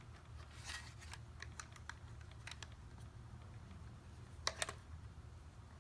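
Small scattered clicks and light scrapes of hands working the plastic parts and fittings of an RC snow tank's plow-arm mount, with two sharper clicks about four and a half seconds in.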